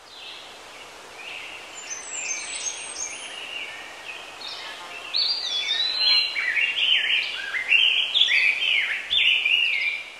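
Birds singing: quick high chirps in the first few seconds, then a louder run of varied whistled phrases that rise and fall from about five seconds in, over a faint steady outdoor background.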